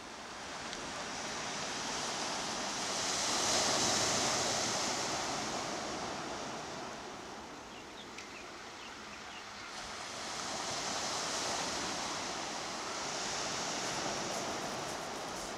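Sea waves washing onto the shore, a steady rush that swells loudest about four seconds in and again twice later.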